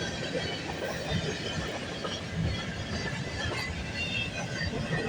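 Freight train cars rolling past, a steady rumble of steel wheels on rail with brief, scattered high-pitched wheel squeals.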